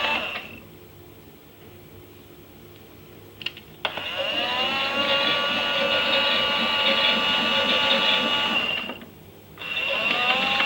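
Small electric motor of a toy Miele Softtronic washing machine turning its drum in stop-start bursts. It runs down and stops just after the start and stays off for about three seconds. Two clicks follow, then it whirs up with a rising whine, runs for about five seconds, stops briefly and whirs up again near the end.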